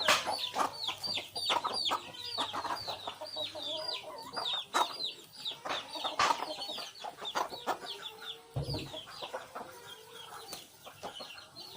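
Chicks peeping in a rapid series of short, high, falling chirps, several a second, with sharp clicks scattered among them and a low thump near the end.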